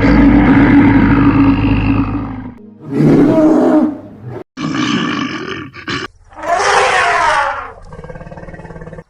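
A run of loud animal calls cut one after another. A long call with a deep rumble lasts about two and a half seconds, followed by several shorter calls with brief gaps between them, the last one quieter.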